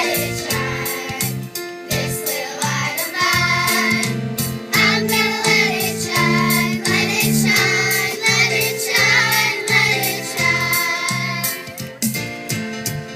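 A choir singing a song over an instrumental accompaniment with a steady, stepping bass line.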